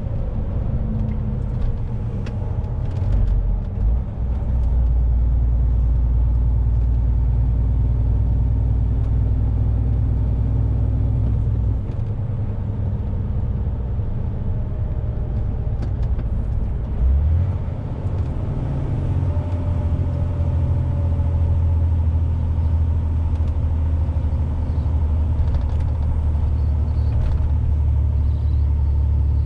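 Truck engine and road noise heard from inside the cab while driving: a steady low drone that eases off about twelve seconds in and picks up again about five seconds later.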